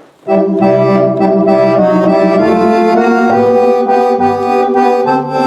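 Roland FR-8X digital accordion playing a Cordovox-style sound: dry-tuned accordion voices layered over an organ sound, brought in with the expression pedal. Sustained chords start about a quarter second in, over a bass line that changes note every second or so.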